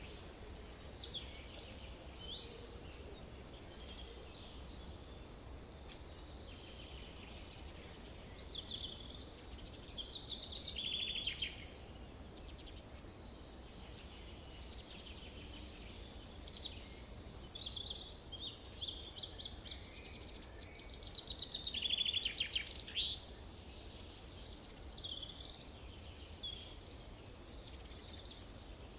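Forest birds singing and calling: a steady scatter of high chirps and short trills from several birds, over a faint low rumble. Two louder trilling songs stand out, one about ten seconds in and one about twenty-two seconds in.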